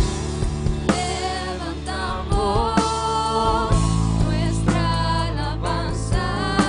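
Christian worship music: a band with drums and a steady bass, with voices singing long held notes over it.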